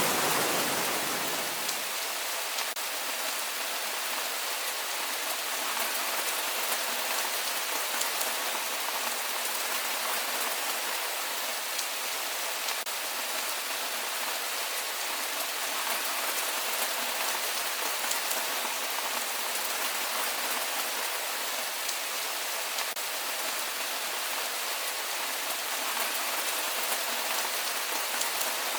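Rain falling steadily, an even hiss of many drops with faint single drop ticks scattered through it. Over the first two seconds a deeper, fuller rushing fades out, leaving the lighter, thinner rain sound.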